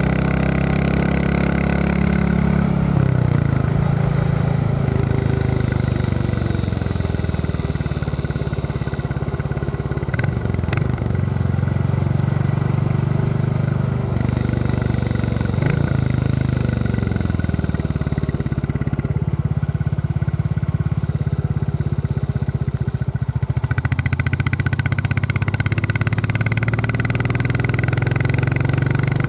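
Royal Enfield Classic 350's single-cylinder engine thumping along under way, its note dropping as the throttle eases off a few times and climbing again when it picks up.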